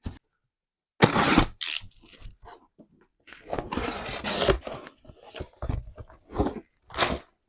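Packaging being torn open and crinkled by hand: irregular bursts of tearing and rustling, the loudest about a second in and the longest around the middle.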